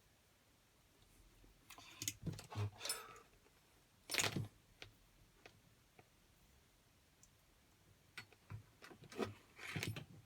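Scattered clicks, taps and rustles of hands handling electrical wires and clip connectors, with the loudest knock about four seconds in and a cluster near the end.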